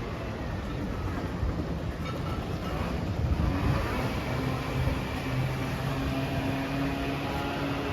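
Motor vehicle engine running close by amid street noise, settling into a steady low hum from about halfway through.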